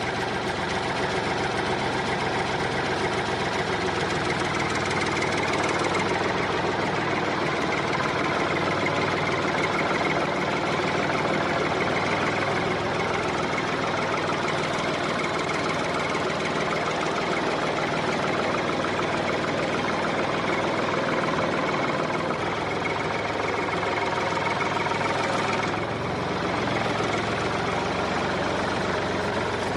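Small motor of a homemade mini model tractor running steadily, with a continuous mechanical drone and whir.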